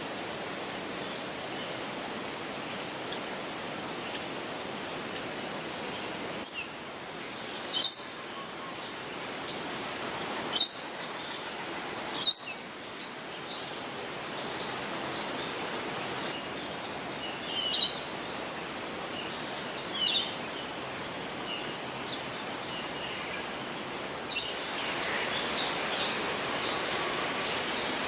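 Birds calling: four loud, sharp, high chirps about one to two seconds apart around a quarter of the way in. Softer chirps follow, and there is a busier patch of chirping near the end, all over a steady rushing background noise.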